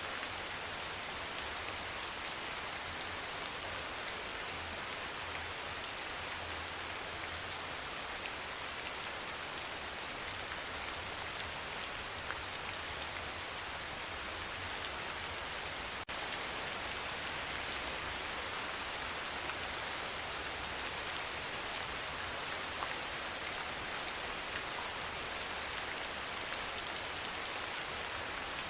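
Steady rain falling, an even hiss of many fine drops. About halfway through it breaks briefly and comes back slightly louder, with less low rumble.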